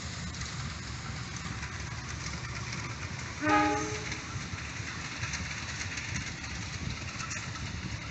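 A train running by with a steady rumble, and one short blast of its horn about three and a half seconds in, the loudest sound.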